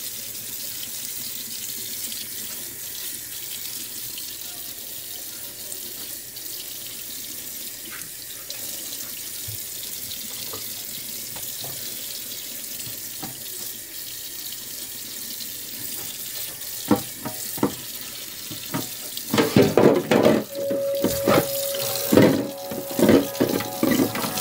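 Kitchen tap running steadily into a sink while refrigerator shelves are washed. From about two-thirds of the way in, knocks and clatter come over the water, louder than it.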